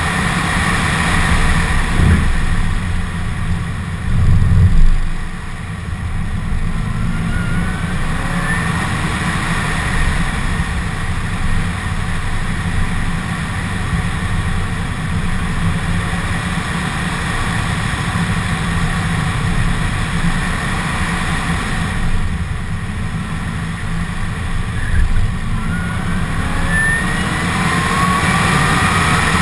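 2015 Corvette Z06's supercharged 6.2-litre V8 running hard on track, with a thin supercharger whine that climbs in pitch as the car accelerates, most clearly near the end. A loud low burst stands out about four to five seconds in.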